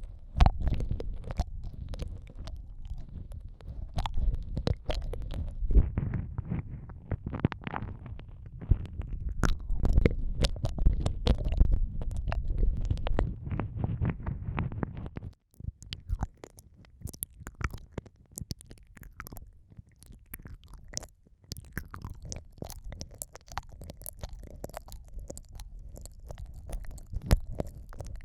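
Close-up ASMR ear-eating mouth sounds on an ear-shaped microphone: wet mouth clicks and smacks pressed against it, with a heavy low rumble for roughly the first half. About halfway through the rumble stops abruptly, leaving quieter, lighter, sparser wet clicks.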